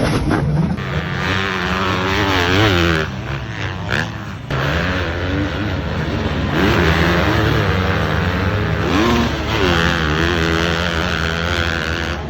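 Motocross motorcycle engines revving, the pitch rising and falling over and over as the throttle is worked, with short dips in the sound about three and four and a half seconds in.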